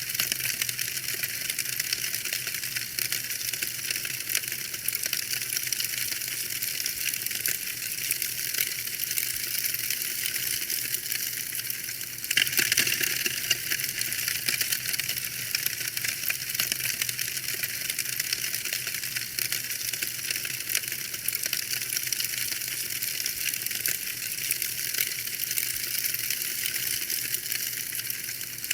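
Wood fire in a fireplace crackling: a dense run of small snaps and pops over a crisp hiss, with little low rumble. It gets briefly louder about twelve seconds in.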